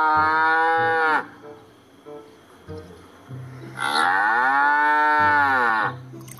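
Cow mooing: two long, drawn-out moos, the first ending about a second in and the second starting about four seconds in.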